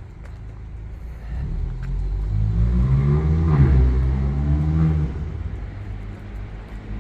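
A motor vehicle's engine passes close by, growing louder to a peak about halfway through and dropping away sharply about five seconds in, over a steady low rumble of city traffic.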